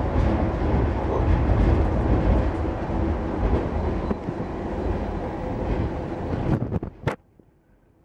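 Passenger-car noise of a train running at about 100 km/h: a steady rumble of wheels on the rails. A few sharp knocks come near the end, then the sound cuts off suddenly about seven seconds in.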